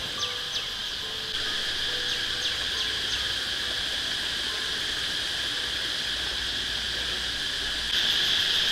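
A steady, high-pitched chorus of insects such as crickets, stepping louder about a second in and again near the end. Faint sustained music notes sound under it at first and fade out.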